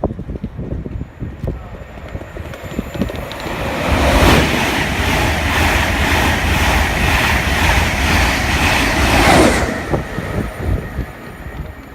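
A train passing through at speed: a loud rushing noise with evenly repeating beats swells up about four seconds in and falls away quickly near the ten-second mark.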